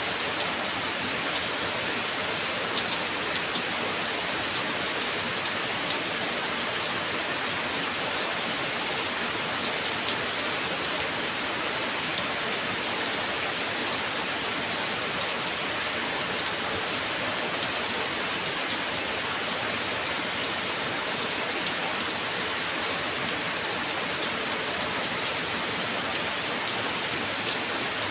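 Heavy rain falling steadily, an even hiss with fine scattered drop patter.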